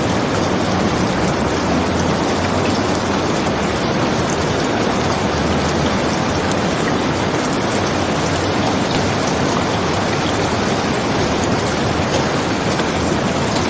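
Steady rain falling, an even unbroken hiss of rain with no pauses.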